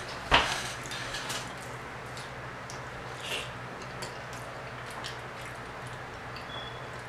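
Close-miked eating sounds: chewing, wet lip smacks and small mouth clicks while eating fried fish and cheesy grits. A single sharp knock, the loudest sound, comes about a third of a second in, with lighter clicks after it.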